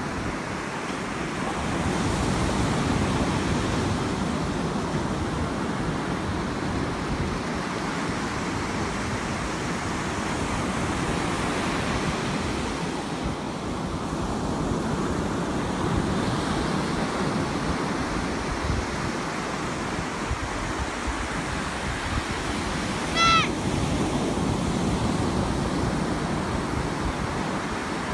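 Ocean surf washing in steadily, with wind buffeting the microphone. Near the end, a single short high-pitched cry cuts through briefly, the loudest moment.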